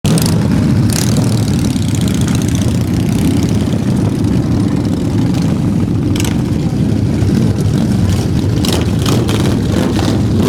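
Motorcycle engines running with a steady low rumble, with a few short sharp noises over it.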